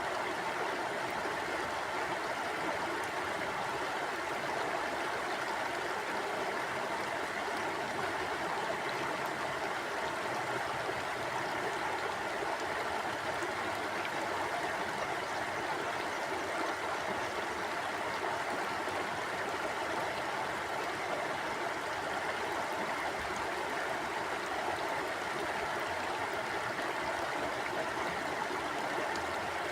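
Mountain stream flowing steadily over rocks, a constant rush of water.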